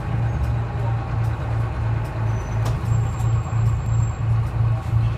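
Detroit Diesel 6V71 two-stroke V6 diesel of a 1970-71 GMC New Look bus idling after the revs drop, its low note beating about three times a second. A faint thin high tone sounds briefly a little past midway.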